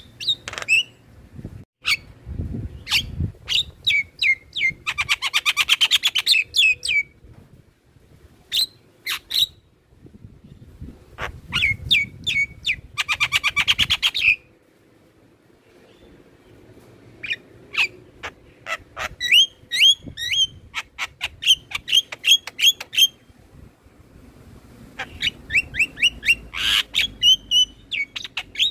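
Javan myna calling, a string of sharp short notes and whistles with two fast rattling runs, about five and about twelve seconds in.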